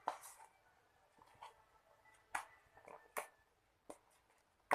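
A few faint, scattered clicks and taps, about six, over quiet room noise.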